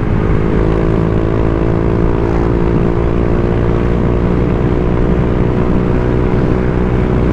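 Honda Vario 125 scooter's single-cylinder engine running through an aftermarket TZM 'standar racing' exhaust at a steady cruising speed, its exhaust note holding an even pitch.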